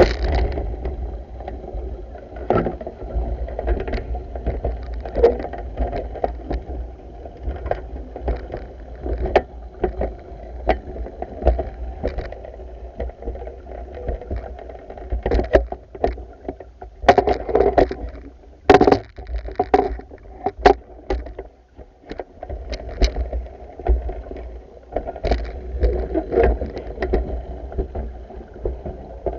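Pool water sloshing and lapping as a pool vacuum is worked along, with irregular clicks and knocks from the pole and vacuum head and a low rumble throughout.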